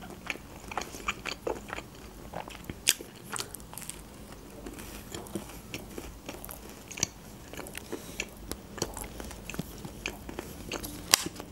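Chewing with the mouth closed: soft, scattered, irregular mouth clicks and smacks.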